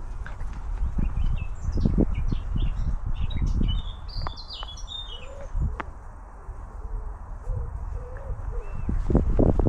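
A songbird singing a short, rapid run of high chirping notes during the first half, over a low rumble with occasional thumps.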